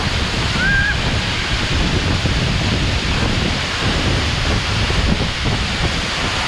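Waterfall pouring down close by: a steady, loud rush of falling water that is strong enough to be likened to rain.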